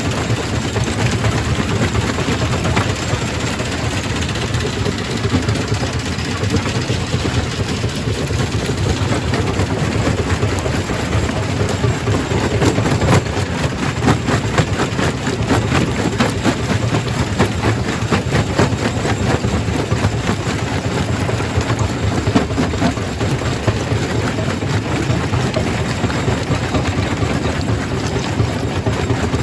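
Quarry primary rock crusher running: a steady heavy machine drone under dense rattling and knocking of stone being broken. The knocking is thickest through the middle.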